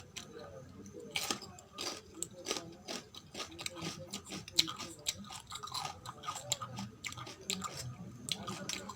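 Close-miked chewing of food, with many sharp, irregular mouth clicks and crunches.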